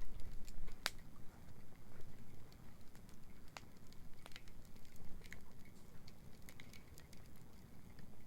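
Wood campfire crackling, with scattered sharp pops and snaps, the loudest about a second in, over a low steady rumble.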